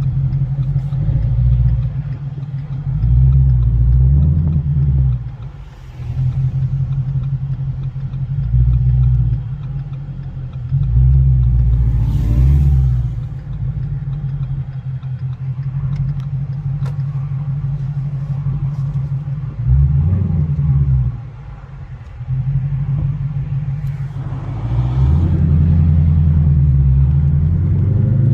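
Ford Shelby GT350's 5.2-litre flat-plane-crank V8 engine and exhaust rumbling while driving, with several short surges of throttle and the revs climbing near the end.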